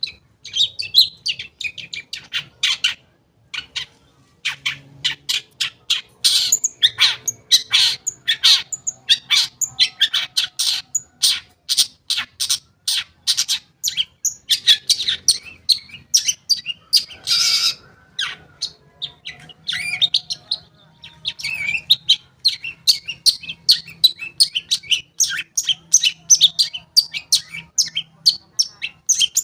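Long-tailed shrike singing a fast, varied song of short, sharp chattering notes, with one longer, rasping note a little past halfway.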